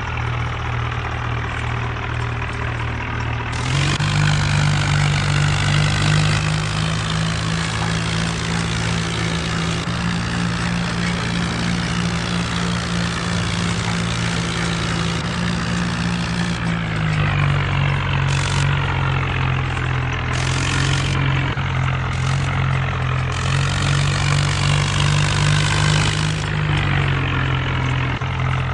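Mahindra Arjun tractor's diesel engine running steadily. Its revs step up about four seconds in, drop back partway through, then rise and fall once more near the end.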